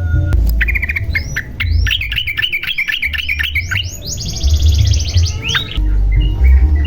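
Yellow-vented bulbul (trucukan) singing: a quick run of rising chirps, then a fast, higher trill about four seconds in, then a few scattered notes near the end. A steady low rumble runs underneath.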